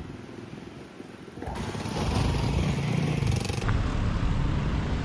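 Motorbike engine running close by, quieter at first and louder from about a second and a half in, with street noise.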